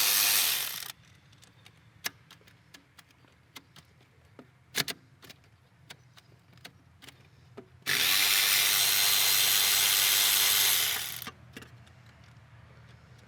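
Handheld power tool spinning out the valve body bolts on a Subaru TR580 CVT: a steady whirring run that stops about a second in, light clicks and taps of tool handling, then a second run of about three seconds starting near the 8-second mark.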